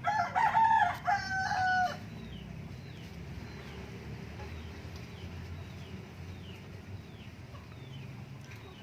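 Rooster crowing once, a loud pitched call in two parts lasting about two seconds, followed by small birds chirping in short falling notes.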